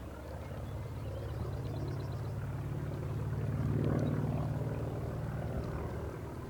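North American T-28 Trojan's Wright R-1820 nine-cylinder radial engine passing in flight, growing louder to a peak about four seconds in and then fading away.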